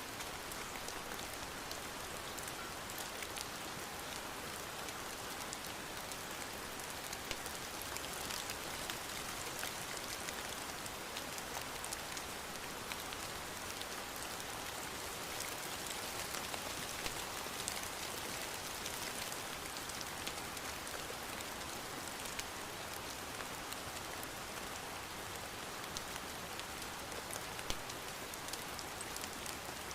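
Steady rain falling, with many small sharp taps of drops striking a surface such as a window.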